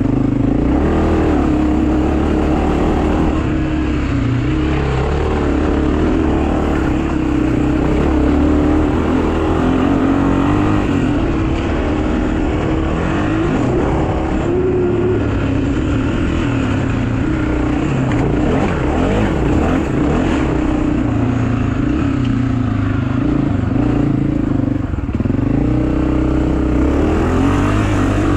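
Pit bike engine running continuously, its pitch rising and falling as the throttle is worked.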